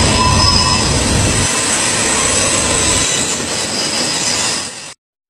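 Freight train rolling around a tight curve: a steady rumble of the cars with thin, high wheel squeal held over it. The low rumble falls away about a second and a half in, and the sound cuts off suddenly near the end.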